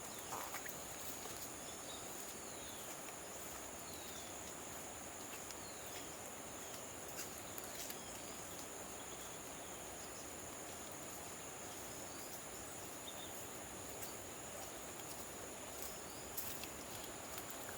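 Insects droning steadily in two high, unbroken tones over a faint even hiss, with a few short falling chirps scattered through.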